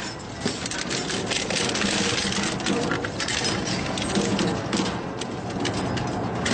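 Industrial shredder running under load, its cutters grinding and tearing material with a continuous dense crackling and rattling.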